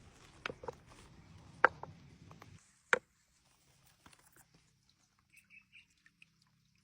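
Kitchen food-preparation handling sounds: a handful of sharp taps and clicks, the loudest about one and a half and three seconds in, over a low hum that stops partway through. After that come only faint small clicks.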